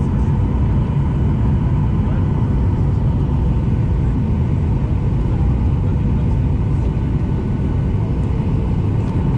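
Boeing 737 jet engines and airflow heard from inside the passenger cabin as a loud, steady, deep rumble with a faint steady hum on top.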